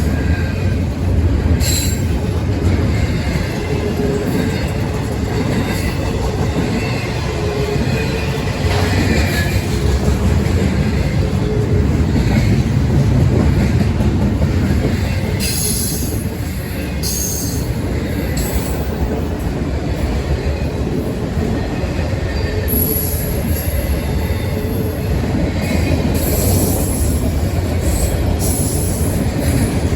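A train rolling past: a steady rumble of wheels on rail, with brief high-pitched wheel squeals several times.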